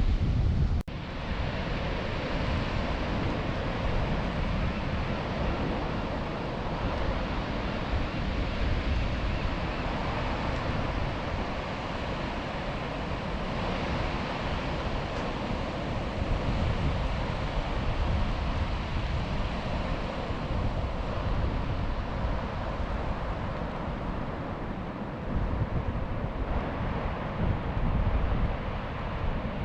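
Ocean surf washing on the beach, with wind blowing on the microphone.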